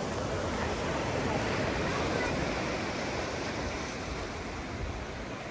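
Ocean surf breaking and washing up a sandy beach: a steady rush that swells about a second in and eases toward the end.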